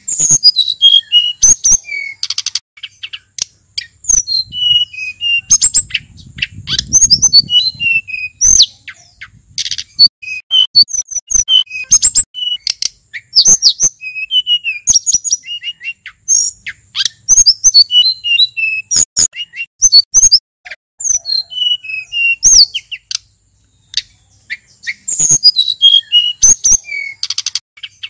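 Male sulingan gunung songbird singing a lively varied song: quick runs of high chirps and short falling whistled notes, with sharp clicks among them and a brief pause near the end.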